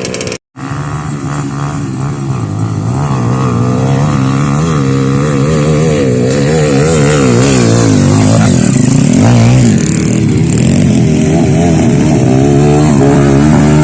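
Trail motorcycle engine revving up and down over and over under load, loud and close, rising in level after a few seconds. A brief dead gap in the sound about half a second in.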